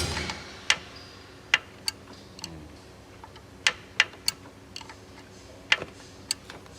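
Hand tools clicking and knocking on metal while working a stiff timing-chain pin out of a Mercedes engine: about eight sharp, irregular clicks with pauses between them.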